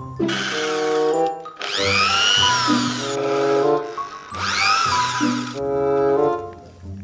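Drill motor running in three short bursts, its whine rising and then falling in pitch each time, over background music with a mallet-percussion melody.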